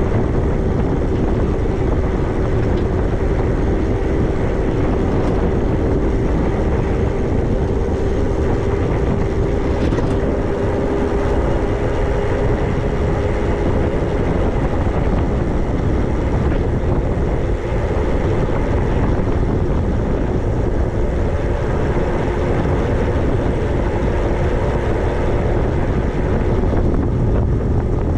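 Riding an e-bike: steady wind rush over the microphone with a constant whine from the ride, its pitch dropping a little about halfway through.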